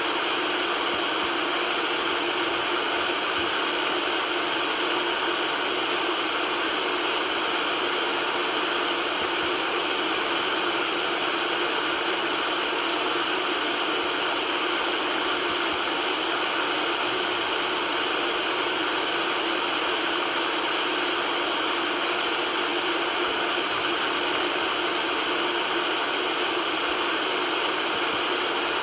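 Steady white noise, an even hiss that never changes, with almost nothing in the low end.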